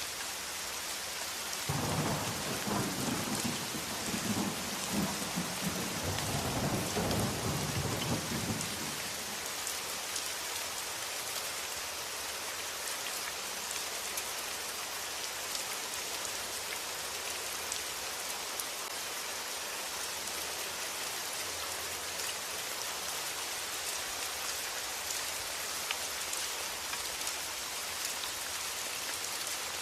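Steady rain falling, with a low rolling rumble of thunder starting about two seconds in and fading out after several seconds.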